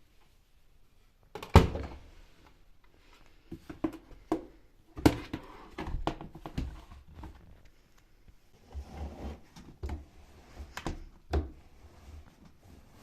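Household handling sounds: a string of knocks, clicks and thunks of objects being moved and set down, the loudest knock about one and a half seconds in, with low rubbing and rumbling noise in the second half.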